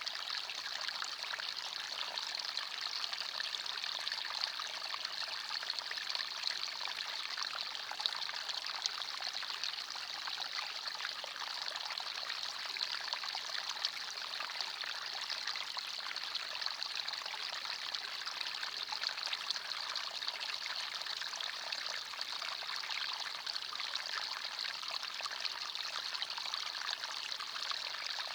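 Small forest stream running steadily over stones, a continuous trickling and splashing of water.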